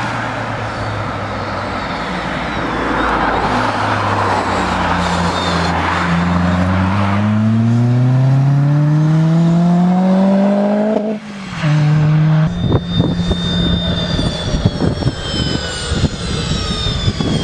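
Ford Fiesta ST150 (Mk6) four-cylinder engine and exhaust accelerating hard, its note rising steadily for several seconds, then dropping off suddenly as the revs are cut. After that comes another stretch of engine note with a rough, crackling, buffeting texture.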